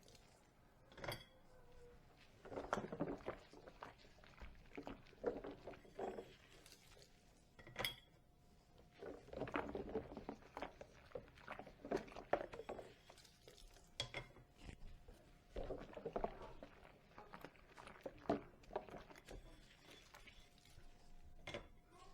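Dishes being washed by hand, with irregular clinks and knocks of crockery and cutlery and short bursts of scrubbing or splashing noise between them.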